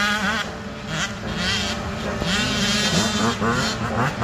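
Several off-road motorcycle engines revving together, their pitch repeatedly rising and falling as the throttles are blipped.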